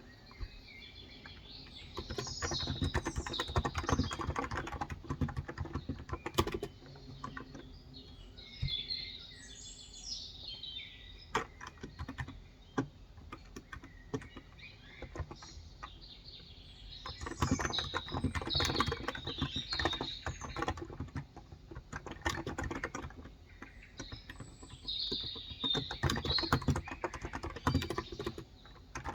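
Typing on a Cox Endeavor electrostatic capacitive (Topre-style) tenkeyless keyboard with 35 g switches, in bursts of quick keystrokes with pauses between them. Birds chirp in the background at several points.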